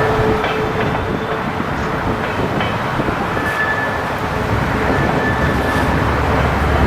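Freight train cars rolling past close by: a steady rumble of steel wheels on rail, with a few brief high squeals.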